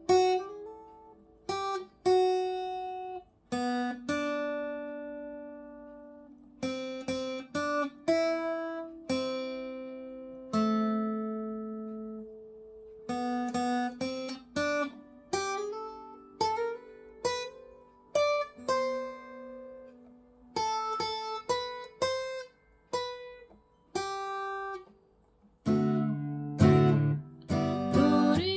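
Acoustic guitar playing a melody line in single plucked notes that ring and fade, with some strummed chords; about 26 seconds in it becomes fuller, with low bass notes and denser chords.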